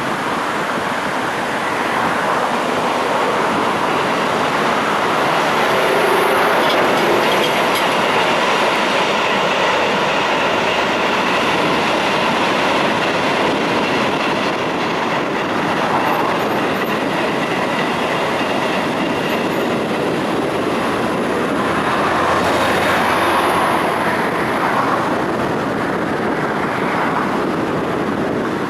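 Train running past with a steady, loud rumble and wheel clatter, with a faint thin squeal in the middle stretch.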